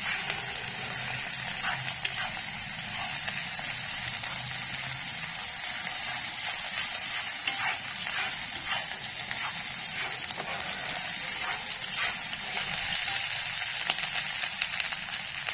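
Chopped onions and ginger-garlic paste sizzling steadily in hot oil in a non-stick kadhai. A spatula scrapes and clicks against the pan now and then as they are stirred.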